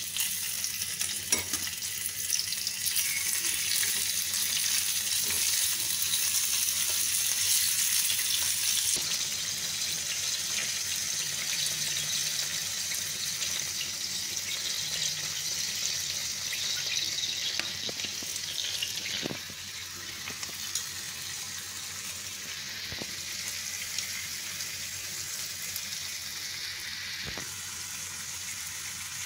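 Pork sizzling as it fries in a pan, with a few sharp clicks of a utensil against the pan. The sizzle is strongest early on and drops to a softer sizzle about two-thirds of the way through.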